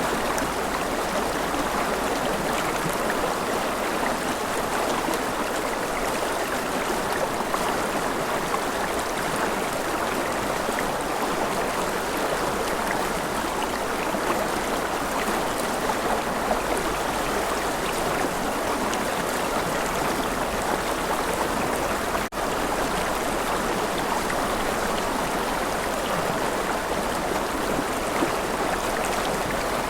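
River water flowing steadily, a continuous rush of water, with a momentary dropout about three-quarters of the way through.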